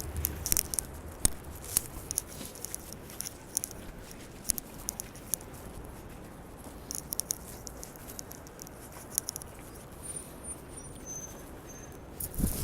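Snow crackling: irregular light ticks and crackles that come in short clusters, over a faint steady city hum.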